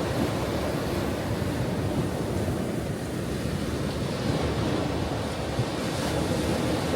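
Ocean waves washing and breaking in a continuous low surf, easing slightly a few seconds in and building again.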